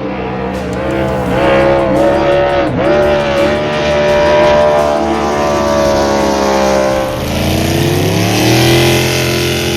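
6-litre V8 circuit race boat engines running hard at high revs. The pitch dips briefly three times in the first three seconds as the throttle is lifted, then holds and slowly falls; about seven seconds in, a lower engine note comes in and rises.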